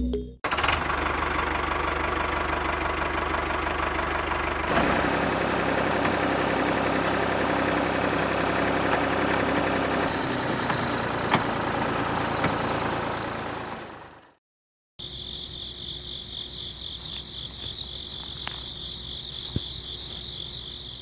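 Small motor-driven machine running steadily, a mechanical whir with gear noise. It cuts off suddenly about 14 seconds in. About a second later a quieter, higher-pitched motor whine starts and runs on.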